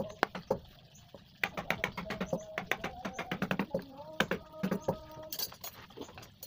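Carving chisel being driven into wood by a mallet in quick, light taps, several a second. The taps pause for about a second near the start, then carry on.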